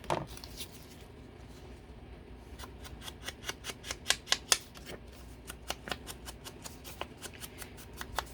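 Scissors snipping paper in a quick run of short cuts, several a second, starting a couple of seconds in.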